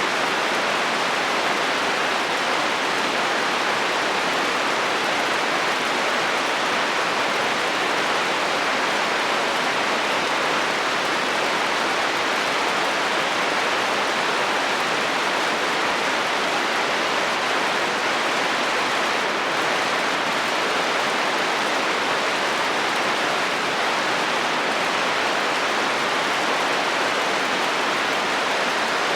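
Rain falling on a metal roof: a steady, even hiss with no thunder.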